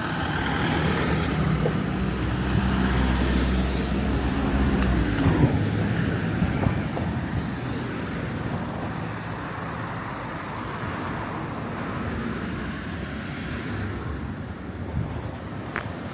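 Street traffic: a motor vehicle's engine passes close by, loudest in the first several seconds, then fades into steady road noise.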